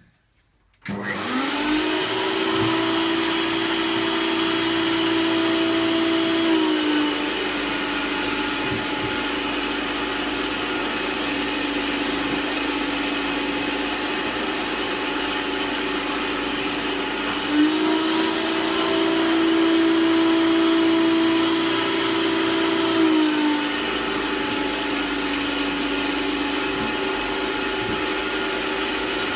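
Hoover Turbopower 2 1000 upright vacuum cleaner switched on about a second in and running steadily while sucking up dog hair through its hose. Its motor whine steps up in pitch and back down twice.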